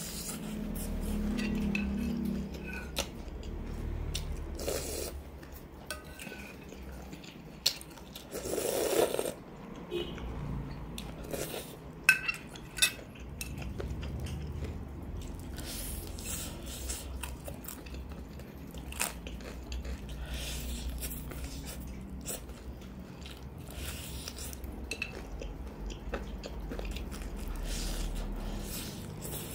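Close-up eating sounds of crispy fried chicken being bitten and chewed, with crunches and many small clicks, a few of them sharper and louder.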